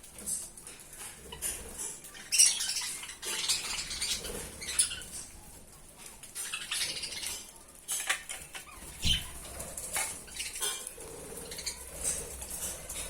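Pet budgerigars moving about in a cage: irregular clinks and rattles, wing flutters and short high chirps.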